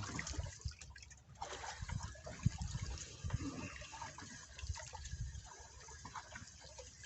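Water splashing and dripping, with an irregular low rumble of wind buffeting the microphone.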